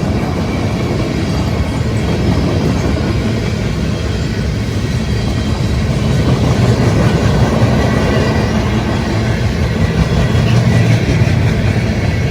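Freight train rolling past at close range: a steady rumble of wheels on rail, growing a little louder in the second half.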